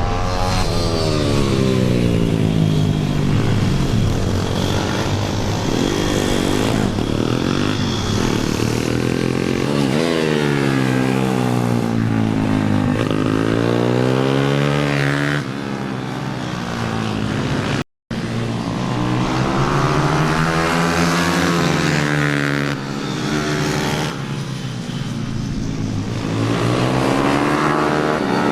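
Single-cylinder pit bike engine accelerating hard and backing off, over and over, its pitch climbing and falling as it laps the track. The sound cuts out for an instant about eighteen seconds in.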